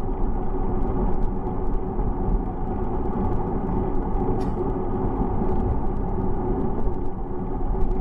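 Steady low rumble of wind and road noise from riding a bicycle, with scattered small clicks and rattles.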